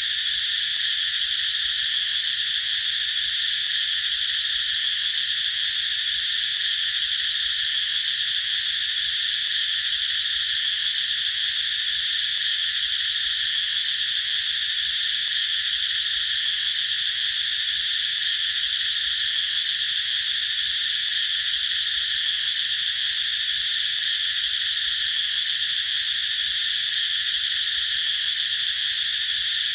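Cicadas singing in a continuous, steady high-pitched buzz that does not rise or fall.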